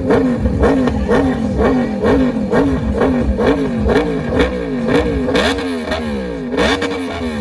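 Motorcycle engine revved in quick repeated throttle blips, its pitch rising and falling about twice a second.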